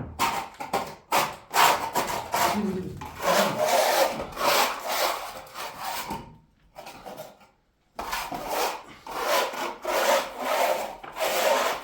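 Repeated rasping strokes, back and forth, with a pause of about two seconds a little past the middle.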